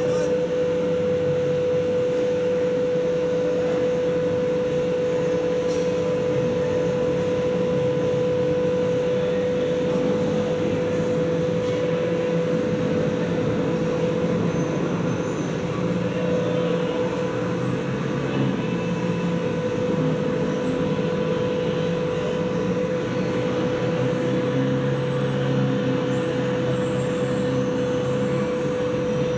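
Diesel locomotive running steadily, a constant high whine over an even rumble.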